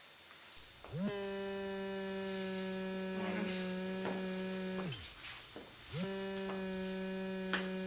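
Mobile phone buzzing on vibrate for an incoming call, in two long bursts of about four and three seconds with a short gap. The buzz swoops up as each burst starts and sags as it stops.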